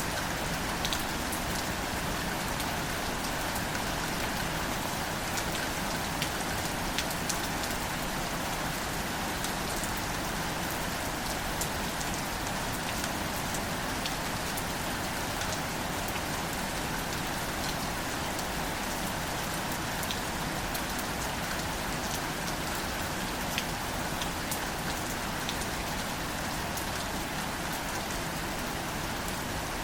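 Steady rain falling on leafy wildflowers: an even hiss with scattered sharp ticks of single drops.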